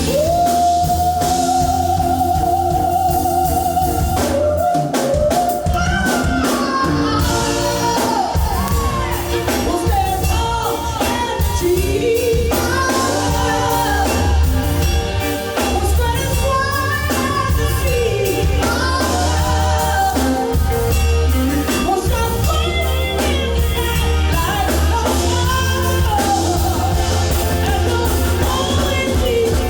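A singer holds one long note, then sings bending melodic phrases over a live band with a steady heavy bass line and drums.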